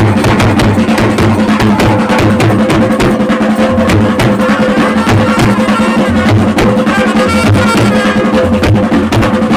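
Traditional Chhattisgarhi baja band playing a Gauri Gaura tune: fast, dense drumming over steady low held tones.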